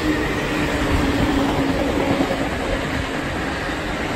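Electric commuter train passing on the tracks below, a steady rumble of wheels on rails with a low, steady hum that sinks slightly in pitch.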